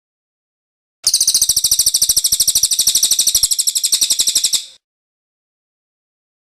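Cililin bird singing its rolling trill ('ngerol'): a single rapid, evenly pulsed high-pitched trill lasting about three and a half seconds, starting about a second in.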